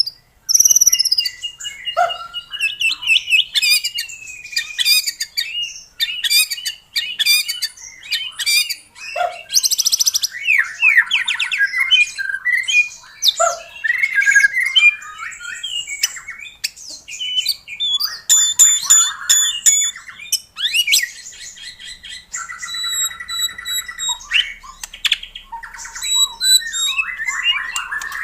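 White-rumped shama (murai batu) in full song: a long run of varied phrases mixing clear whistles, rapid trills, harsh chattering notes and series of short, high repeated notes.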